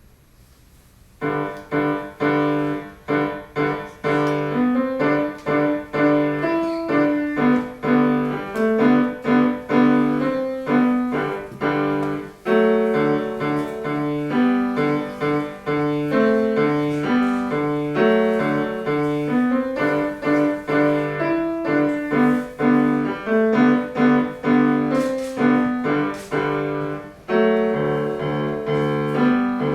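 Piano playing a simple melody over a repeating bass accompaniment, starting about a second in after a brief silence.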